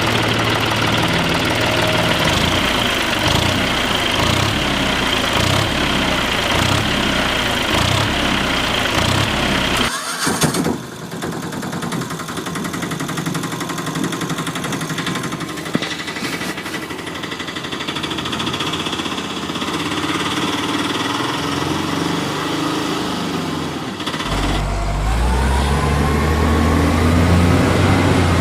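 Vehicle engine sounds: an engine running with an even low pulse, which cuts abruptly at about ten seconds to a quieter engine, then near the end a louder, deeper engine revving up with rising pitch.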